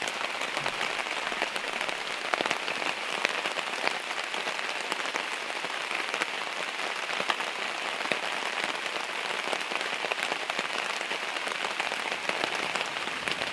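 Steady rain falling, an even hiss with many small drop ticks through it.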